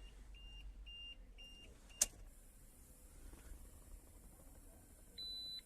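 Mahindra Bolero B6 dashboard warning chime beeping about five times in quick succession, then a sharp click about two seconds in and one longer, higher beep near the end. The chime goes with the low DEF fluid warning that keeps the vehicle from starting.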